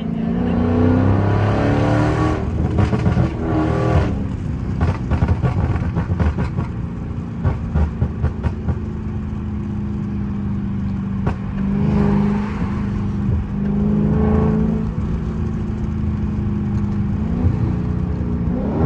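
Dodge Charger 392's 6.4-litre HEMI V8 pulling up through the revs, then a run of sharp crackles and pops from the pop-tuned exhaust over several seconds. It then settles into steadier running with a couple of swells in revs, rising again near the end.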